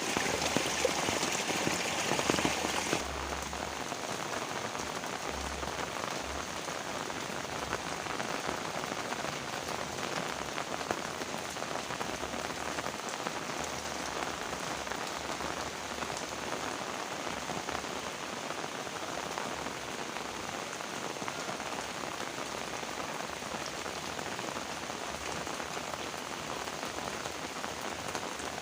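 Heavy rain falling steadily: an even rushing hiss of rain with scattered drop ticks. About three seconds in, a louder, brighter wash of water cuts off abruptly, and the slightly quieter steady rain carries on.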